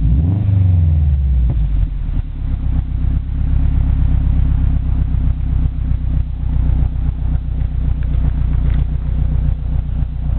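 Turbocharged 2.5-litre flat-four of a 2006 Subaru Legacy GT spec.B, breathing through a cheap custom exhaust that is cat-less apart from the cat in its 3-inch Cobb downpipe. The revs fall back in the first second or so, then the engine idles steadily.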